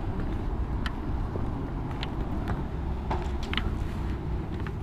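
Steady low rumble of a Harley-Davidson Road Glide's V-twin engine and wind while riding, with scattered light ticks.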